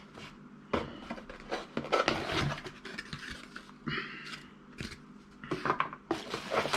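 Sat nav packaging being handled as the box is unpacked: irregular scrapes, rustles and light knocks of cardboard and plastic parts being lifted and moved, with a longer rustle about four seconds in.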